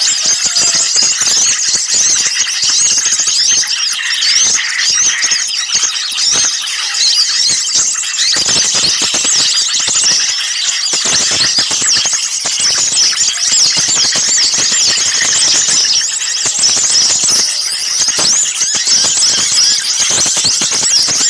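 Dense chorus of many small birds calling over one another, a continuous mass of quick, high, twittering chirps. It is a lure-call mix of agitated, excited small birds, of the kind played to draw birds in.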